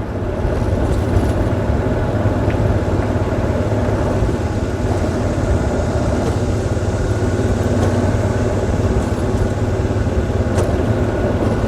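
Golf cart driving steadily along a paved cart path: a constant low drone from the cart's motor and tyres, with no change in speed.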